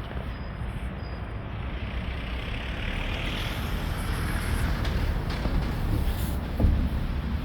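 Road traffic: a motor vehicle passing in the street, a low rumble with hiss that swells and then eases, and a single thump near the end.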